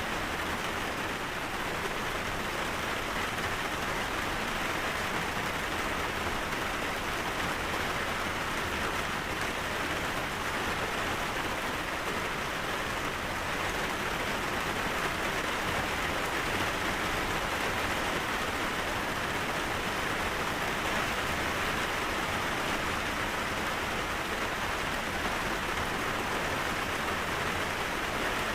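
Steady rain falling, an even hiss of rain on a surface with no breaks or single loud drops.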